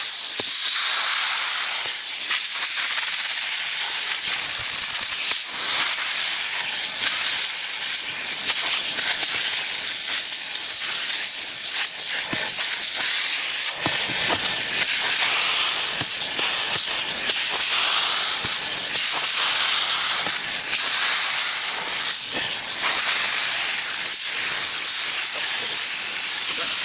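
Steady, loud hissing of a high-pressure cleaning jet working over the truck, varying a little as it moves across surfaces.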